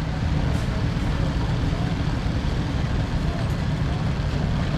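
Engine of a vintage Case tractor on steel wheels running steadily, a dense, even low chugging.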